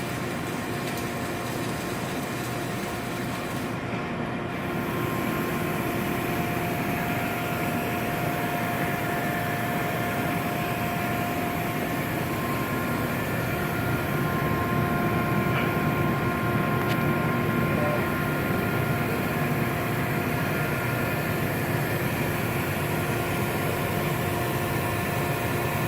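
Steady industrial machinery noise: a continuous hiss and rumble with several steady humming tones. It gets a little louder about five seconds in and again around fourteen seconds.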